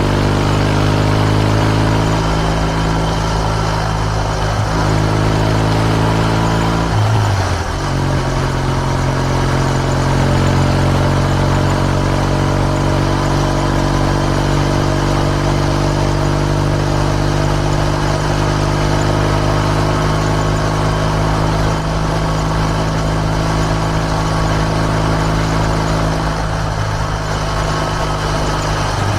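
Kawasaki W650's air-cooled parallel-twin engine through an RS Gear Wyvern Classic aftermarket muffler while riding: a steady exhaust note with a gear change about seven seconds in, after which the pitch climbs slowly.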